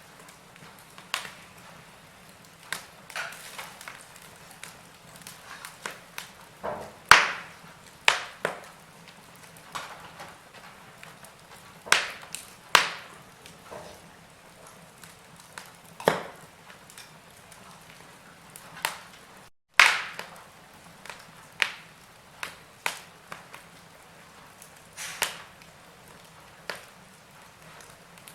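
Wood fire in a fireplace crackling: irregular sharp pops and snaps, some much louder than others, over a soft hiss. A split-second dropout to silence comes about two-thirds of the way through.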